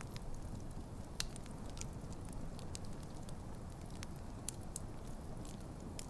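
Campfire burning: a steady low rumble of flames with frequent sharp, irregular crackles and pops from the burning wood, one louder pop about a second in.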